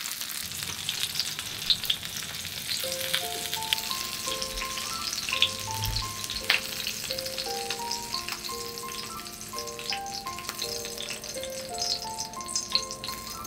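Starch-coated pieces of canned mackerel crackling and sizzling as they shallow-fry in hot oil in an iron frying pan. A soft knock comes about six seconds in, as a fried piece is set down on a paper-lined tray. Gentle piano background music starts about three seconds in.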